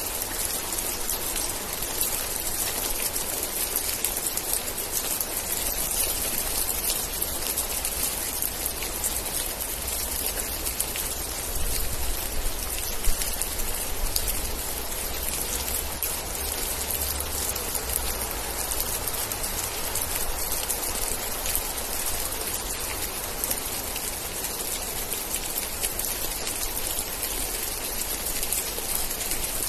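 Steady, dense rainfall with countless drops pattering on surfaces. A deeper rumble swells for a few seconds around the middle, with one sharp louder hit near its start.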